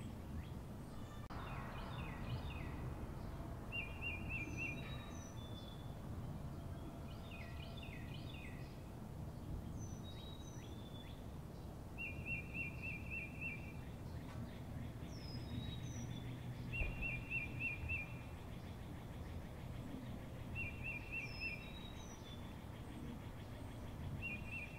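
Birds calling over a steady low background noise. A short, rapid trill about a second long repeats every few seconds, with brief high whistled notes sliding down in between.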